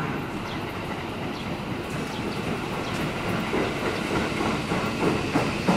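Commuter electric train running along the Tobu Tojo Line track with a steady rumble, its wheels clacking over rail joints. The clacks get louder and come more often near the end.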